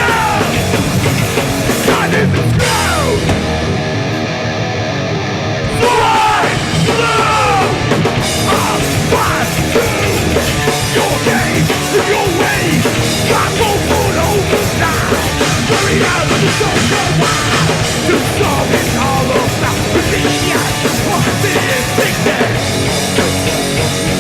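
Hardcore punk band playing live: distorted guitars, bass and drums, with shouted vocals. The band thins out briefly about four seconds in and comes back in full about six seconds in.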